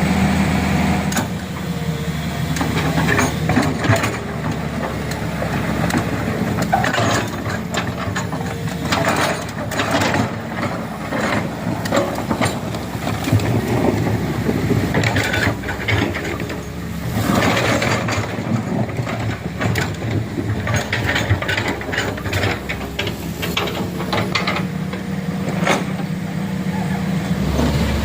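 A heavy truck's engine running steadily, with repeated knocks and rattles from the vehicle as it works over the rough road.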